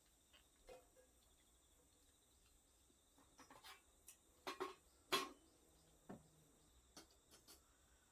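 Scattered sharp pops and crackles of a small wood fire burning in a wood stove, in irregular clusters with the loudest pop about five seconds in, over a faint steady high insect trill.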